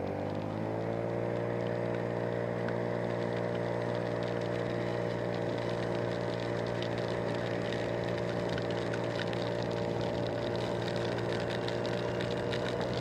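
Motorcycle engine running under way, its pitch climbing over the first second and then holding steady.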